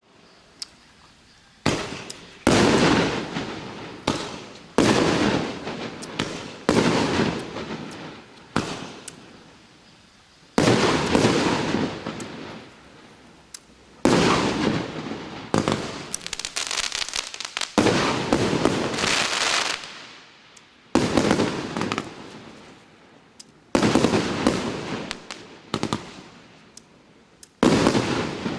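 C293MA firework battery (cake) firing shot after shot: about a dozen sharp bangs, one every two seconds or so, each trailing off in a crackling hiss.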